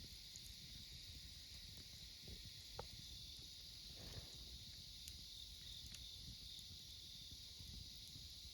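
Autumn insects chirping in a steady, faint, high-pitched chorus, with a few soft crackles from a wood campfire.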